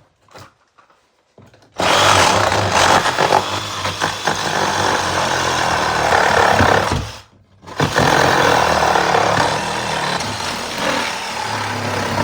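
A power tool running loudly in two long runs of about five seconds each, with a short pause between them.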